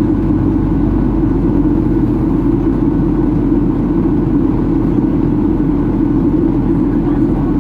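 Steady cabin noise of a Boeing 737-800 in descent: its CFM56-7B jet engines and the rush of air past the fuselage, a loud, even low drone.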